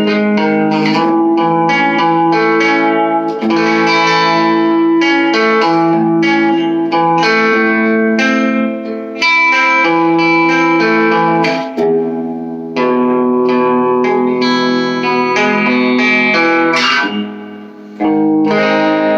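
Electric guitar played through an all-tube amp, its gain at 7 with the guitar's tone knob rolled down to about 2 or 3 and its volume rolled back slightly: chords and single notes ringing out, with a few short breaks.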